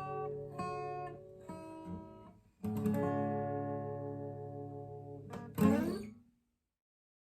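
Acoustic guitar playing the closing bars of a song. Single notes ring at first, a strummed chord comes in about two and a half seconds in and rings out, and one last strummed chord near the end ends the piece.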